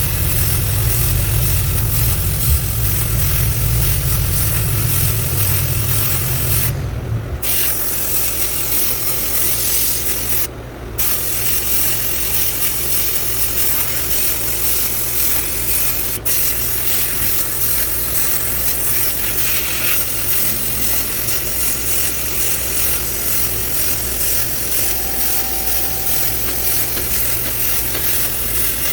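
Sandblasting gun spraying abrasive, a loud steady hiss with two short breaks about seven and ten seconds in. A low hum underneath stops about seven seconds in.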